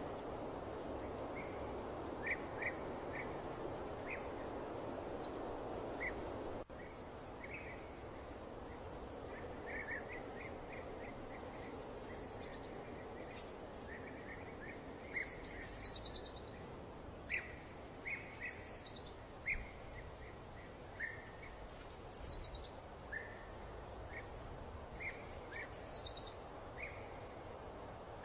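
Wild birds singing: short chirps and repeated high, downward-sweeping calls every couple of seconds, over a steady background hiss that drops abruptly about seven seconds in.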